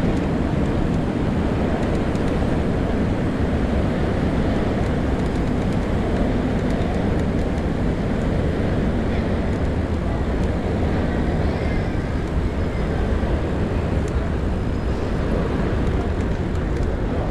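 Steady low rumble of wind on the microphone and street traffic noise while riding a bicycle through city streets.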